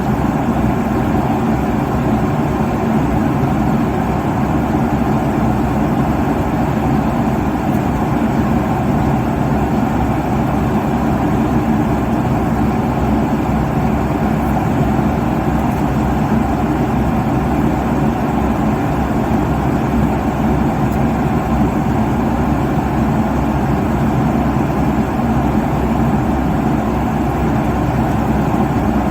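Steady jet airliner cabin drone at cruise: engine and airflow noise, even and unchanging, strongest in the low range.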